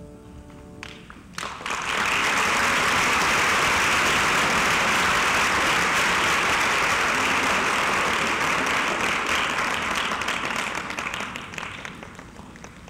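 Theatre audience applauding at the end of a choir piece: scattered first claps about a second in, then full steady applause that tapers off near the end.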